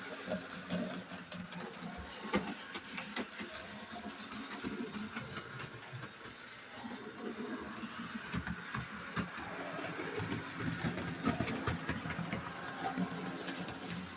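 Hornby 00 gauge Great Western 0-4-0 locomotive running along the track with four-wheel coaches: a small electric motor whirring steadily, with frequent light irregular clicks from the wheels on the rails.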